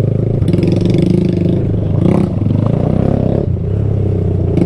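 Small single-cylinder four-stroke mini bike engine revving on and off the throttle over rough trail, easing off about three and a half seconds in and then picking up again, with brief clattering over the bumps.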